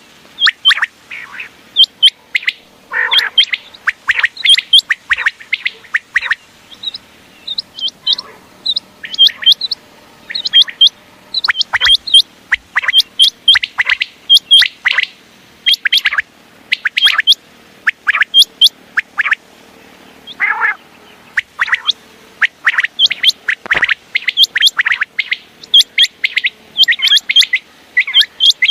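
Common quail calling over and over: short, sharp, clipped notes in quick groups of two or three, repeated without pause.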